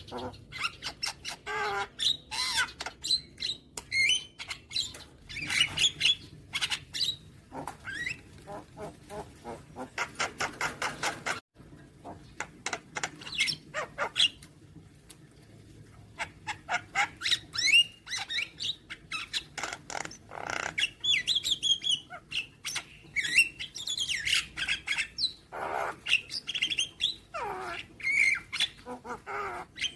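Javan myna (jalak kebo) song: a varied, continuous run of harsh squawks, chirps and sliding whistles, with a fast rattling series of repeated notes about ten seconds in and a brief cut-out of the sound just after it.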